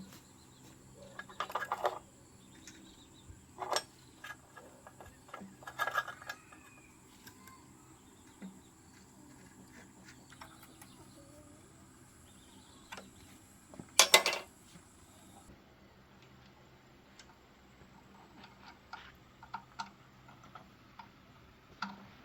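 Scattered metallic clinks and knocks of hand tools against engine parts, loudest in a short cluster about two-thirds of the way through. A faint steady high-pitched tone sounds beneath them and cuts off just after that cluster.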